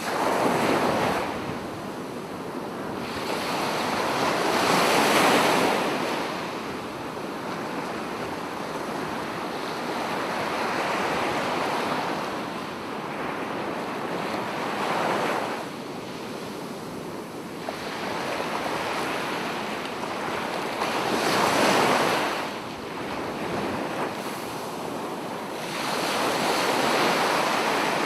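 Sea waves breaking on a beach, the surf swelling and falling back every five or six seconds.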